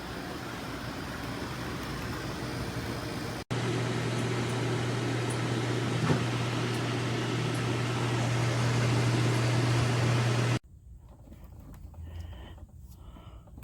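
SereneLife portable air conditioner running with a steady rush of air. After a cut at about three and a half seconds it is louder, with a steady low hum under the air noise. A second cut near the end leaves it much quieter and uneven.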